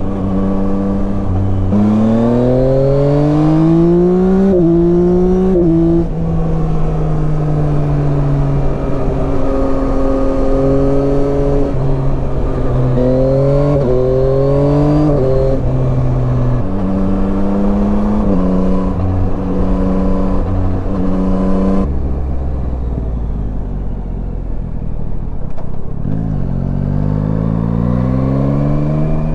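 Yamaha Tracer 9 motorcycle's three-cylinder engine under way. It climbs in pitch in steps as it accelerates through the gears, with a short break at each upshift, and holds steady at cruising speed. About two-thirds through it drops to a low note, then climbs through the gears again near the end.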